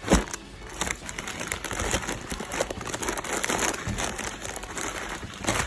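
Plastic snack packets crinkling and rustling as they are handled and packed into a food box, with many small irregular crackles.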